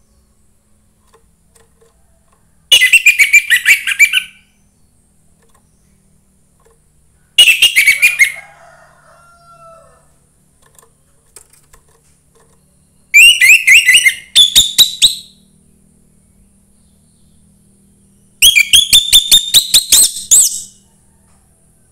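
Young wild orange-headed thrush singing in four loud bursts, each a rapid string of repeated high notes lasting a second and a half to two seconds, with a few seconds of quiet between them.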